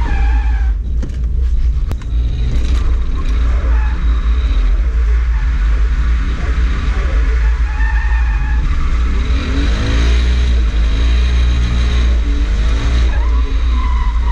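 Toyota JZX100's straight-six engine heard from inside the cabin, revving up and down through a drift with a heavy low drone underneath. Its tyres slide and scrub on the wet tarmac.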